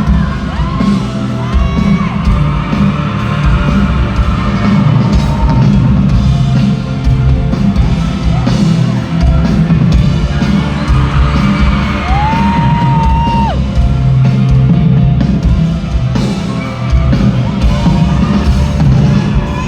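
Live rock band playing loud through a concert PA, with the crowd singing along and shouting. About twelve seconds in, a voice holds one long, steady note.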